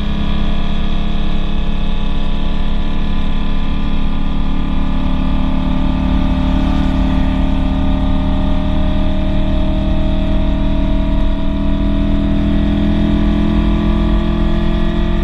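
VW Fusca (Beetle) engine running under load at highway speed, heard from inside the car, its note climbing slowly and steadily as the car accelerates, over steady wind and road noise.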